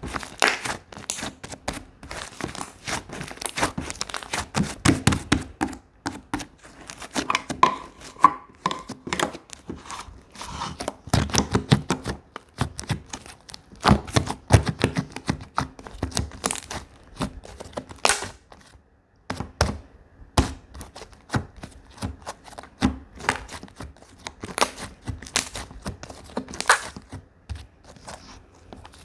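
Slime being squeezed and stretched by hand, giving an irregular run of crackling, popping clicks.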